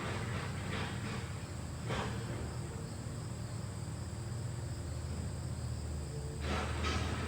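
LG ductless mini-split air conditioner running, a steady low hum. Brief swells of hiss come and go on top of it, the loudest near the end.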